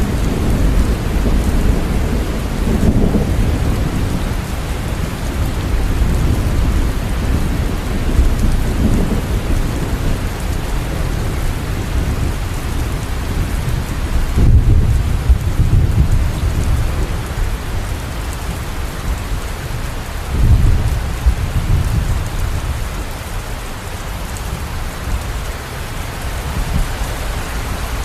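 Steady heavy rain with thunder rumbling through it, the deepest rolls coming about halfway through and again about two-thirds of the way through.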